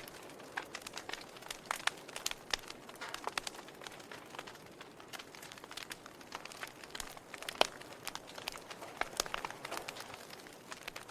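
Wood fire crackling in a fireplace: irregular sharp pops and snaps over a soft hiss of burning, with one louder pop about seven and a half seconds in.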